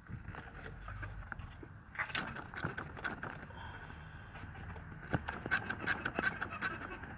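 Volkswagen Golf Mk4 engine running with a steady low rumble and many irregular knocks and rattles, the sign of a worn engine mount.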